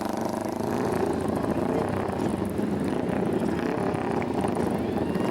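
Flat-track racing motorcycle engines running, a steady mix of several engines with no break.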